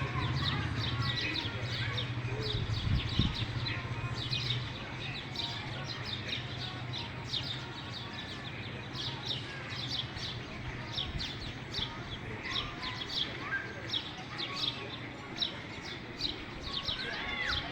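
Birds chirping outdoors: many short, high, falling chirps repeated over and over, with a low steady hum underneath that stops about four seconds in.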